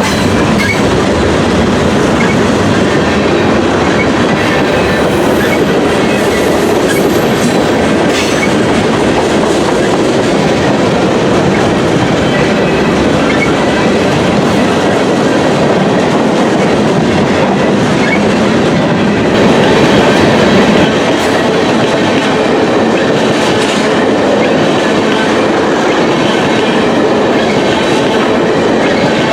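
A train rolling past at trackside: the steady clatter of railroad cars' wheels clicking over rail joints, with a brief louder stretch about two-thirds of the way through.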